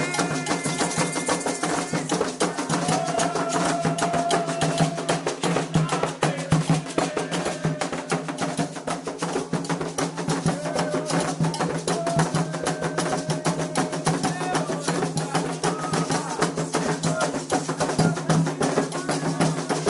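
Candomblé ritual music: fast, continuous drumming on atabaque hand drums with voices chanting over it.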